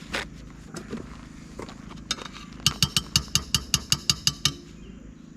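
A metal utensil clinks rapidly against a metal cooking pot, about ten ringing clinks at roughly five a second. A few softer knocks come before them.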